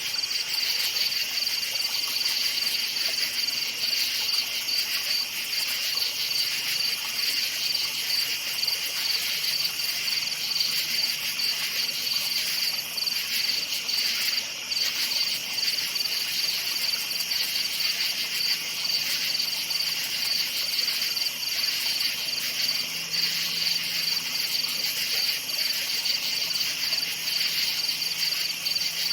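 A dense night chorus of crickets chirping steadily, a continuous high, finely pulsing trill with no breaks. A faint low hum sits underneath from a few seconds in.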